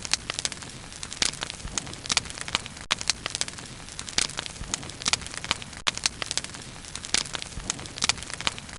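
Bonfire burning, with irregular crackles and sharp pops of varying strength over a steady low hiss.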